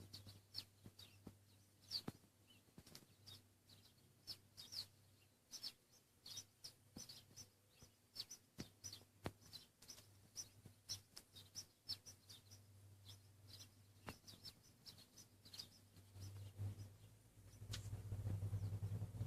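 Feeding flock of small birds chirping faintly: many short, high chirps a few times a second, with scattered light clicks. A low hum swells over the last few seconds.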